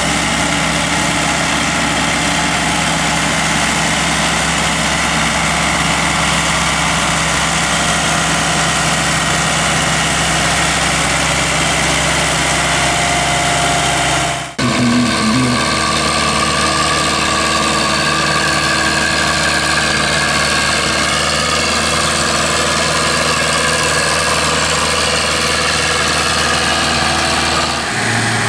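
A pulling tractor's engine running loud at a steady speed, with no revving. About halfway through the sound cuts off abruptly and switches to another steady engine sound.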